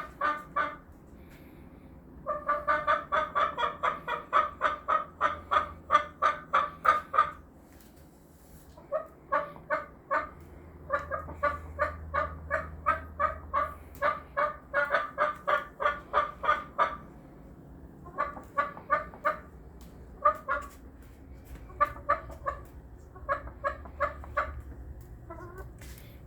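Pet hen clucking in long runs of short, evenly spaced notes, about four or five a second, pausing between series.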